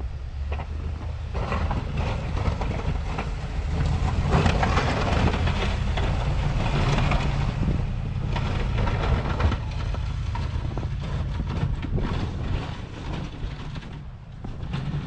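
Snow-plow pickup truck at work: a steady low engine rumble, with a rougher, louder noise that swells about four seconds in and eases off near the end.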